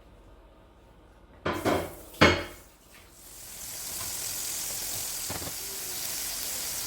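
Pots or pans clanking together three times, the loudest about two seconds in, then a steady high sizzling hiss that starts about three seconds in and holds, as of food frying in a hot pan.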